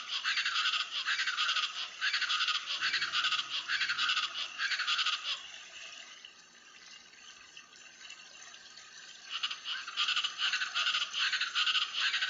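East Brazilian chachalacas calling in a harsh, rhythmic chorus of rapidly repeated calls. The chorus breaks off about five seconds in, goes quiet for a few seconds, then starts up again.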